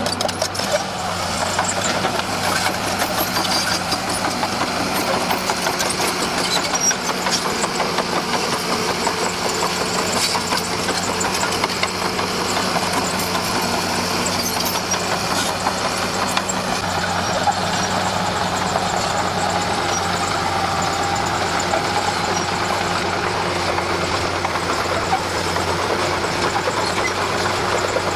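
Diesel engine of a crawler bulldozer running steadily.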